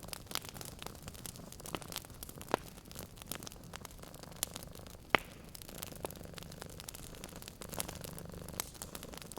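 Wood fire crackling with irregular sharp pops, the loudest about five seconds in. Under it runs a low cat purr that swells and fades in breath-long stretches.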